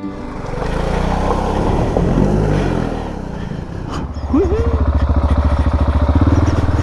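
Single-cylinder adventure motorcycle engine running under way, its pitch rising and falling, settling into a steady pulsing beat in the second half.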